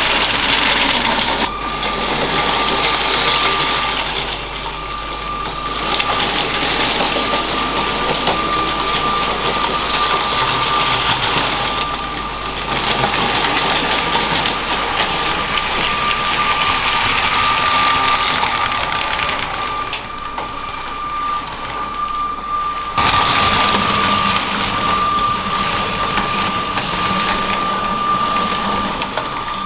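LEGO train's small electric motor running with a steady high whine, its plastic wheels rolling along LEGO track with a hissing rattle that swells and fades as the train moves.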